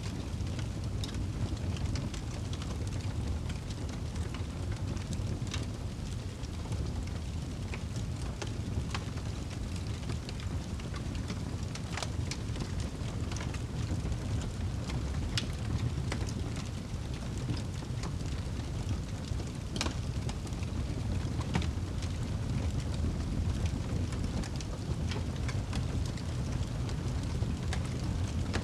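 Wood fire crackling in a fireplace: scattered sharp pops and snaps, a few of them louder, over a steady low rumble.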